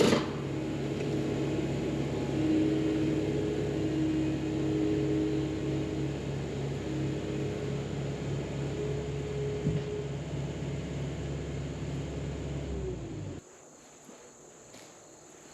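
Blue Diamond hydraulic stump grinder attachment and the machine driving it running steadily, then winding down and cutting off abruptly about 13 seconds in. Crickets chirp faintly after that.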